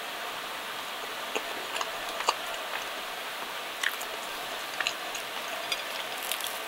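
A person chewing a mouthful of pizza toast with the mouth closed: scattered, irregular soft clicks and crunches over a steady background hiss.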